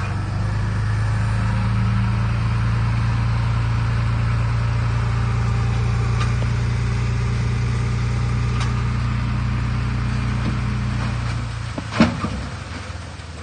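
Heavy diesel machine engine running steadily under load, dropping away about eleven seconds in, followed by a single sharp knock.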